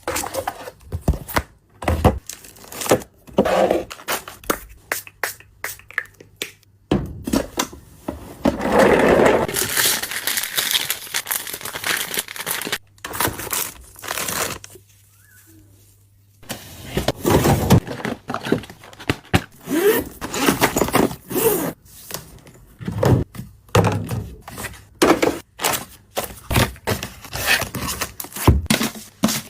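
Household cleaning and tidying sounds: objects being handled and set down with repeated knocks and clicks, with a stretch of rustling and scrubbing noise. It goes quiet for a few seconds midway, then the knocking and rustling resume.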